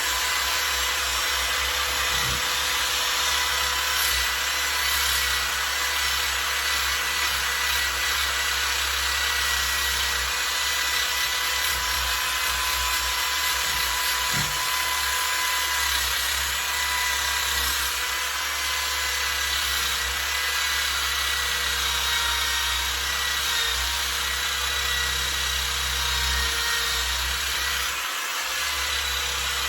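Old corded Black & Decker electric drill running at steady full speed, cleaning up metal on a pit bike's swinging arm, with a continuous motor whine over the rasp of the attachment on the steel. It eases briefly near the end.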